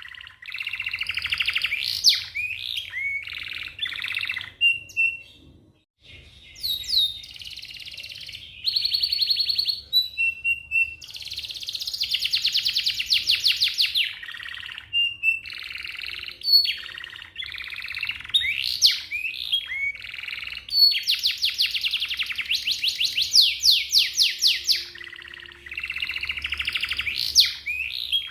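Domestic canary singing a long, fast song of rapid trills and rolls, broken by short whistled notes and chirps, with a brief pause about six seconds in.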